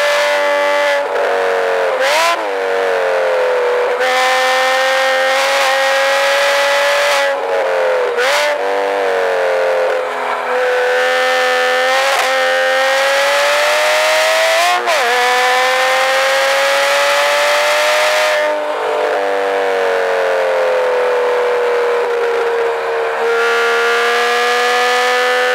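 2007 Porsche Cayman S's 3.4-litre flat-six running hard, heard from inside the cabin. Its note rises and falls, with quick sharp dips and jumps in pitch at gear changes about two, eight, ten and fifteen seconds in, over a steady rush of wind and road noise.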